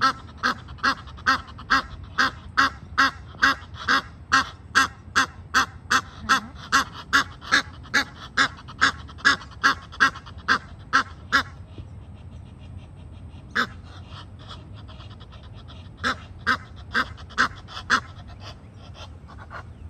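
A bird calling in an even run of short calls, about two or three a second, that stops about eleven seconds in; a few more single calls follow near the end.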